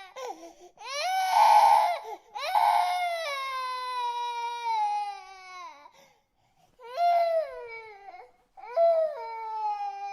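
Infant crying in long, high wails with breaths between. The longest wail, held for about three seconds, slowly falls in pitch. Near the end come two shorter cries after a pause.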